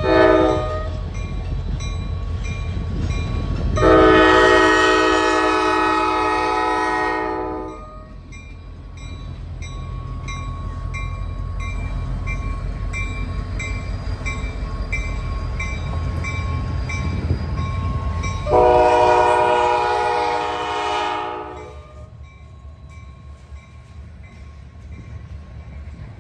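Norfolk Southern GP60 diesel locomotive blowing its chord horn in long blasts, one about four seconds in and another about nineteen seconds in, over the low rumble of the passing train. The rumble fades away near the end, with a faint bell ringing in quick, even strokes throughout.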